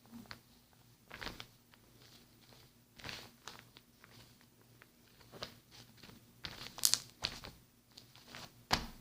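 Slime being squeezed and poked by hand, making irregular sharp clicks and short crackles, loudest about seven seconds in and again near the end.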